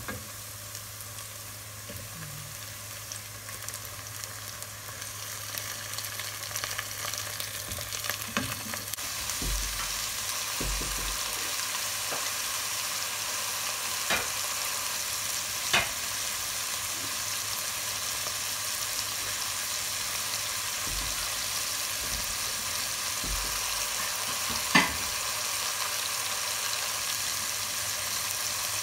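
Chicken pieces frying on onions and garlic in ghee in a pot, a steady sizzle that gets louder about nine seconds in. A few sharp knocks, likely the wooden spatula against the pot, and some dull bumps as the pot is worked.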